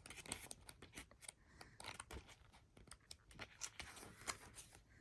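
Faint rustling and soft clicks of sticker-book pages being handled and turned.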